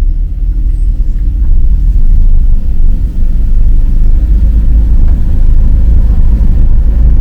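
A car on the move: a steady, loud, deep rumble of road and engine noise.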